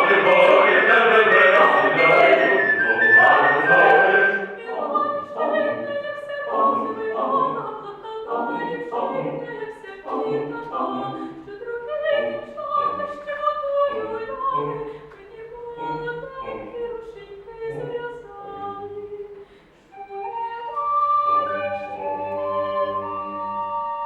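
Mixed choir singing a Ukrainian folk-song arrangement. It is loud and full for the first few seconds, then drops to a quieter, sparser passage, with a brief lull near the end before a held chord.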